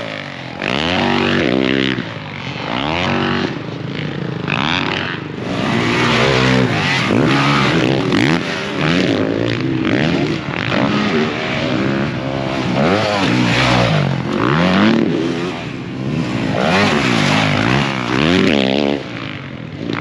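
Motocross dirt-bike engines revving hard, their pitch climbing and dropping back again and again as the bikes run the track, with more than one engine heard at times.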